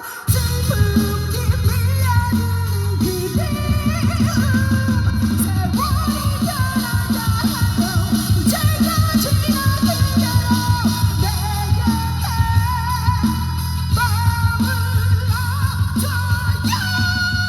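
Live pop band music through a concert PA: a fast, steady, heavy bass-and-drum beat with a melody line over it.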